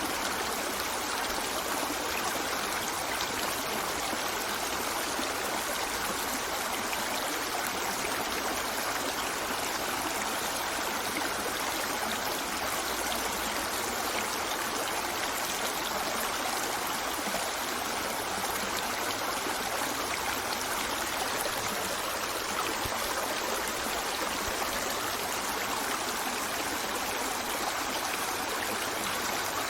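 Running water of a stream flowing steadily, an even rushing with no breaks or changes.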